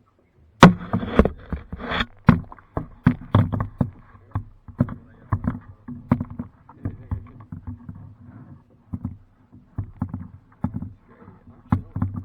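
Kayak paddling: a run of irregular knocks and splashy strokes, starting with a sharp loud one about half a second in, then coming two or three times a second.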